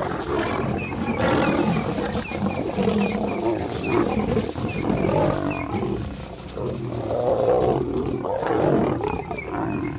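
Lions snarling, growling and roaring as lionesses fight off a male lion, dense and continuous throughout.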